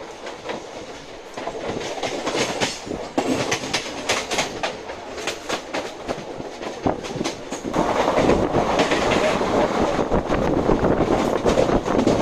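Passenger train coach running along the track, its wheels clattering over rail joints in quick clicks. A louder rumble sets in about eight seconds in.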